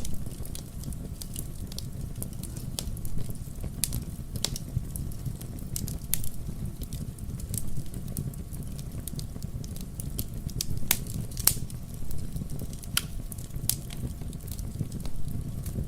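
Wood logs burning in a fireplace: a steady low rumble of flame with irregular sharp crackles and pops, a few louder pops scattered through.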